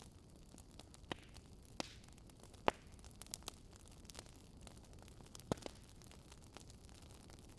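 Wood fire crackling faintly: scattered sharp pops at irregular moments, the loudest near the middle, over a soft steady hiss.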